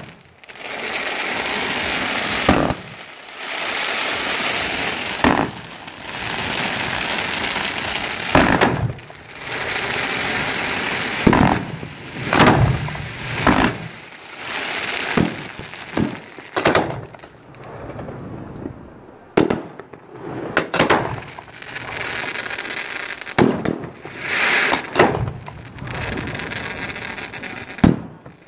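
Fireworks going off at close range: rushing hiss in stretches of about two seconds, each ending in a sharp bang, then a quicker run of separate bangs through the second half.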